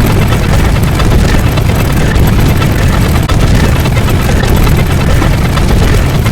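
Loud, steady rumbling noise, heaviest in the bass, with no breaks.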